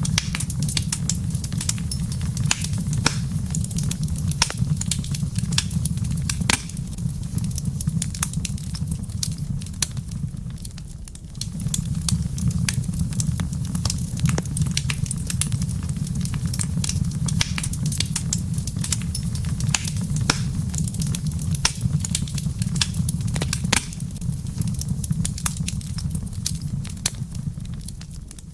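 Wood fire crackling in a fireplace: frequent sharp pops and snaps over a steady low rumble, which dips briefly about a third of the way in.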